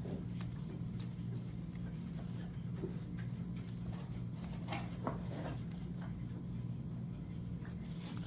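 Steady low hum in a small room, with faint scattered clicks and light rustling.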